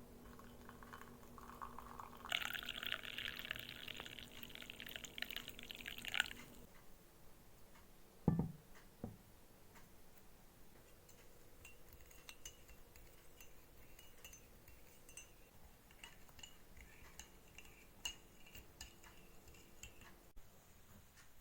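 Liquid pouring for about four seconds, then a single thump, followed by a few faint clinks.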